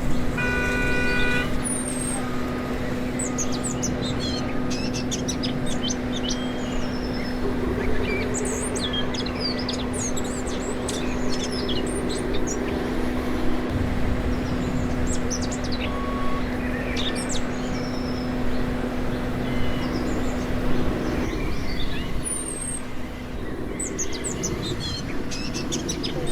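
Small birds chirping and twittering in many short high calls, over a steady low hum that cuts off about 21 seconds in.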